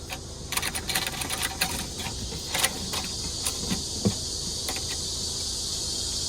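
Small clicks and rattles of a metal fasten hook and tie-down strap being handled and threaded through a metal ring, thickest in the first two seconds and then single clicks now and then. A steady high hiss builds from about halfway.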